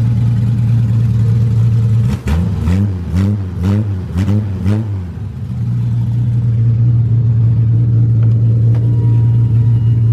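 BMW M30B35 straight-six on individual throttle bodies running steadily. About two seconds in it is blipped about six times in quick succession, each a short rise and fall in revs, then it settles back to its steady run.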